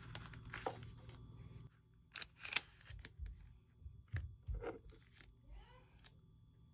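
Paper and card being handled: a series of short rustles, crinkles and light taps. A low steady hum in the background stops under two seconds in.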